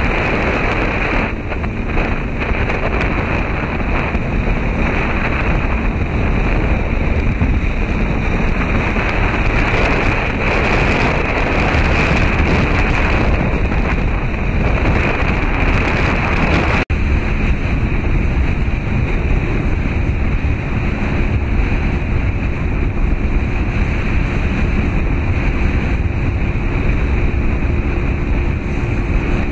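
Steady wind rushing over the microphone together with a boat's engine running and water noise. About 17 seconds in there is a sudden brief dropout, after which a steady low engine hum sits under the noise.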